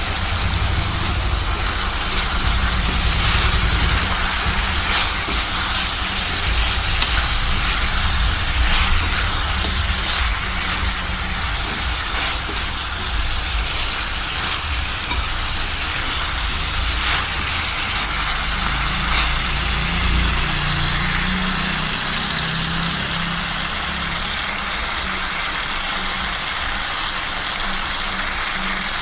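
Chicken curry frying in a steel kadai with a steady sizzle. A metal spoon scrapes and knocks against the pan now and then, over a steady low rumble.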